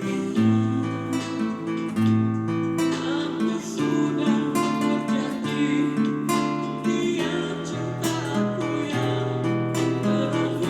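Evo classical guitar being played, a steady run of plucked and strummed chords over held bass notes as the instrument's sound is demonstrated.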